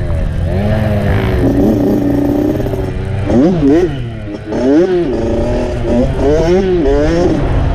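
Dirt bike engine being ridden on a trail, the throttle worked on and off so the engine pitch rises and falls repeatedly. There are quick blips about three seconds in and again near the end.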